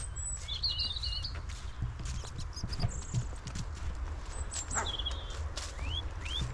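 Footsteps of a person walking on a forest path, with small birds giving short high chirps, a few quick rising ones near the end. A steady low rumble from wind on the microphone sits under it all.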